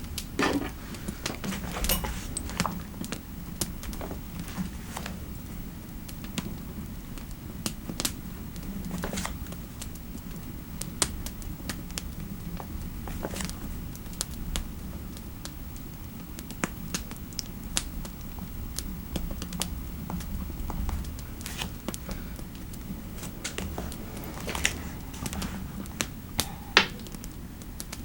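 Computer keyboard typing in irregular, scattered clicks over a steady low fireplace hum with occasional crackles.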